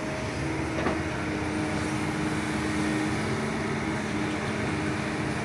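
Heavy excavator's diesel engine running steadily with a constant hum, and a single knock about a second in.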